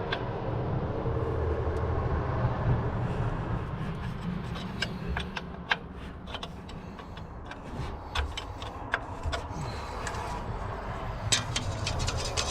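A wrench clinking against a hydraulic line fitting as it is loosened, in scattered sharp metal clicks that come thicker near the end, over a steady low rumble.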